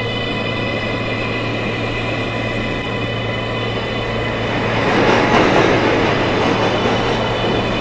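R143 subway train running, a steady high electric whine of several tones over the rumble of wheels on the rails; the noise swells about five seconds in.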